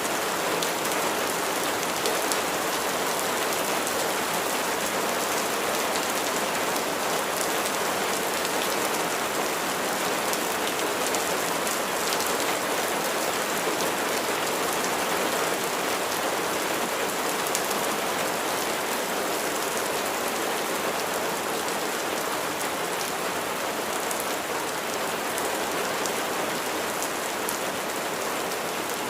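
Steady rain falling on a surface: an even hiss with individual drops ticking through it.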